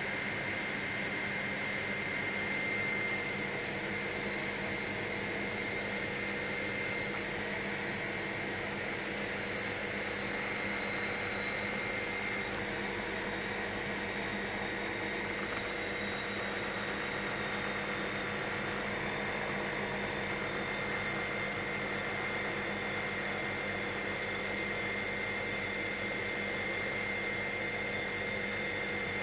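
Helicopter in steady flight, heard from inside the cabin: an even engine and rotor drone with a steady high whine over it.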